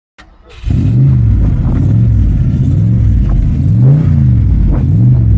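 A car engine revving up and down over and over, about once a second, loud and low-pitched. It cuts in about half a second in.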